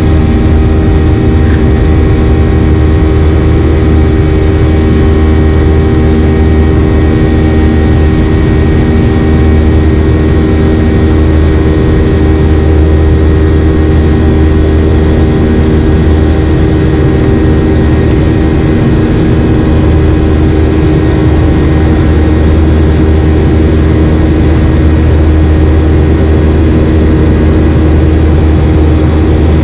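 Boeing 737-800's CFM56-7B jet engines heard from inside the cabin during the climb after takeoff: a loud, steady drone with a deep rumble and several constant hum tones.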